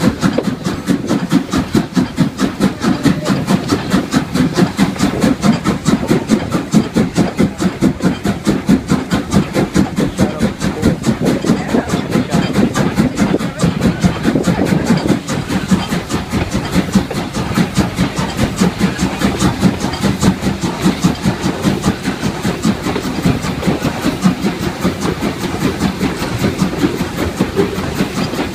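Strasburg Rail Road steam-hauled passenger train running along the track, a loud continuous rumble with a fast, even pulsing rhythm.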